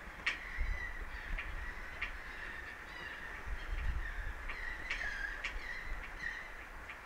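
Birds calling repeatedly in short, harsh cries, over a low rumble of wind on the microphone.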